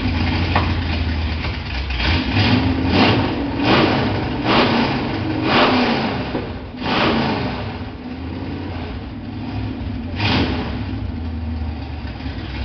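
Dodge V8 engine idling, blipped with about six short revs in quick succession between two and seven seconds in, then settling back to idle with one more short rev near the end.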